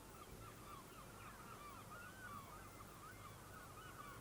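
A flock of birds calling all at once, faint: a dense chatter of many short overlapping honking squawks.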